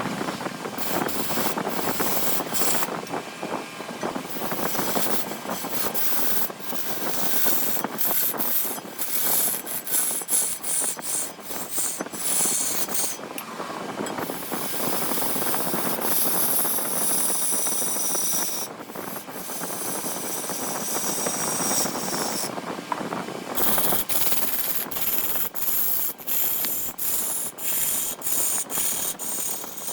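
Wood spinning on a large wood lathe with a tool scraping against it, a steady rough rasping broken by frequent sharp clicks that come faster and more regularly in the last few seconds.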